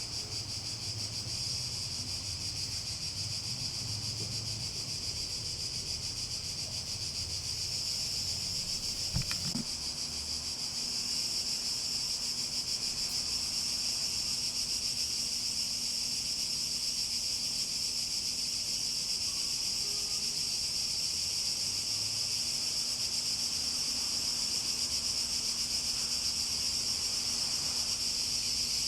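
A chorus of cicadas buzzing in a steady high drone, a little louder from about ten seconds in, with one soft knock about nine seconds in.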